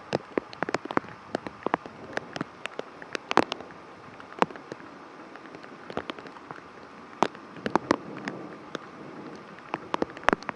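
Rain falling in a thunderstorm: a steady hiss with many sharp, irregular drop hits close by, several a second.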